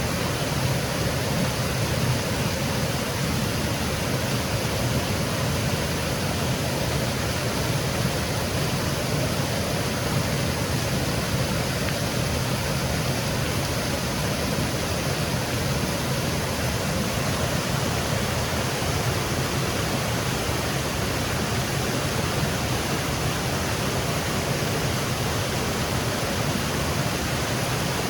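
Small woodland waterfall: water cascading over rocks in a steady, unbroken rush.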